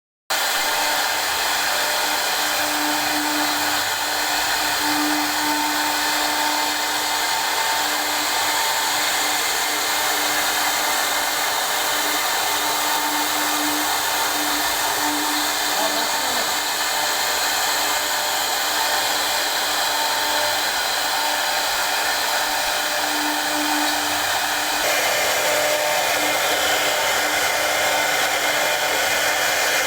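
High-speed CNC router spindle running with a steady whirring hiss and a faint hum. The sound shifts slightly about 25 seconds in.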